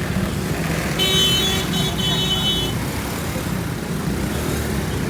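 Motorcycle engine running with wind noise as the bike rides through traffic; about a second in, a vehicle horn sounds with one steady tone for nearly two seconds.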